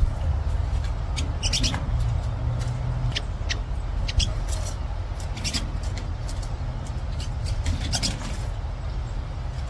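Short, high bird chirps repeating irregularly over a steady low rumble.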